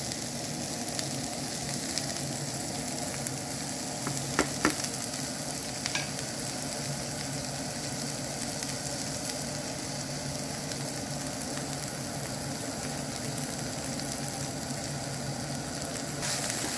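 Chickpeas, onion and tomato paste sizzling steadily in a frying pan over high heat, with a couple of light knocks about four and a half seconds in. Near the end the sizzle grows brighter and louder as a wooden spoon stirs the pan.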